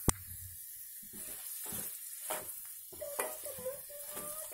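Oil sizzling in an aluminium kadai as peanuts, dals, chillies and curry leaves fry for a tempering, with a slotted spoon stirring and scraping the pan now and then. A single sharp click comes right at the start.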